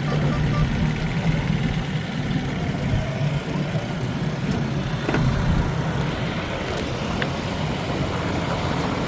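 Johnson 20 hp two-stroke outboard motor running at a steady speed, a constant low drone.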